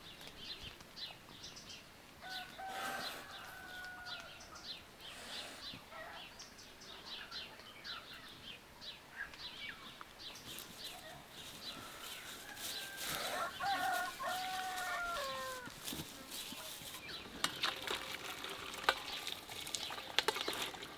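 A rooster crowing twice: a short crow a few seconds in and a longer one about two-thirds through that falls in pitch at its end. Small birds chirp steadily throughout, and a few sharp clicks or knocks come near the end.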